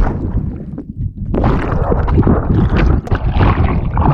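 Wind rumbling and buffeting on the microphone, mixed with water sloshing and splashing around a boat. It dips briefly about a second in.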